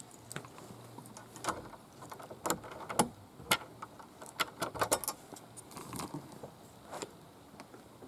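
A bunch of keys jangling, with a run of sharp metallic clicks and rattles over several seconds, as a key is worked in a door lock.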